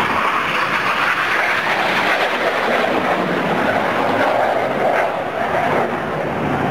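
Jet noise from an Aermacchi MB-339 jet trainer's turbojet flying past: a loud, steady rushing sound that dips slightly near the end.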